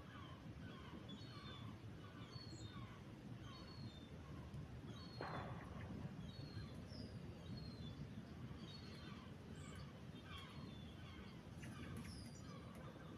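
Small birds chirping over and over in short, quick notes over a low, steady background rumble, with one brief scuffing noise about five seconds in.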